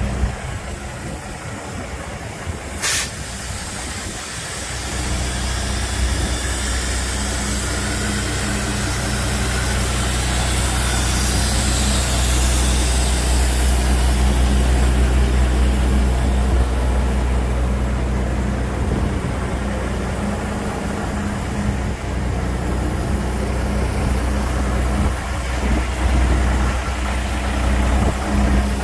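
DAF 95.380 ATI tractor unit's six-cylinder turbo diesel engine running steadily at idle, a little louder through the middle, with one brief sharp sound about three seconds in.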